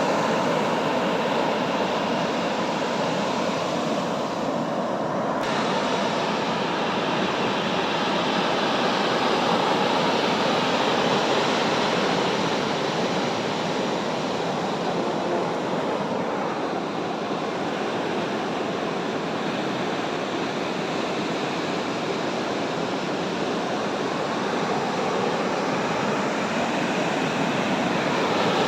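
Sea surf washing onto the beach: a steady rushing noise that swells and eases slowly.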